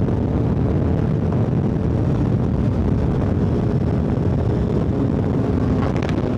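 Motorcycle running at a steady cruising speed, its engine note held even under heavy wind rush on the microphone.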